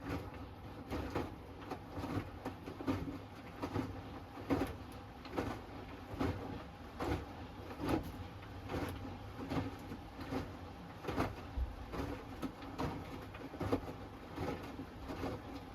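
Hoover Axi 10kg front-loading washing machine tumbling a wash load: a low steady hum under regular soft thuds and swishes about every 0.8 seconds as the laundry and water drop inside the turning drum.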